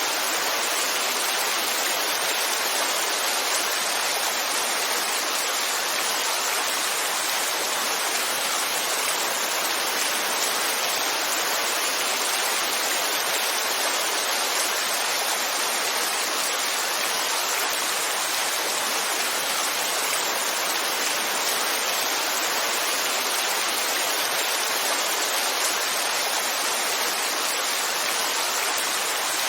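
Heavy rain falling in a steady, even hiss with no distinct drops or thunder.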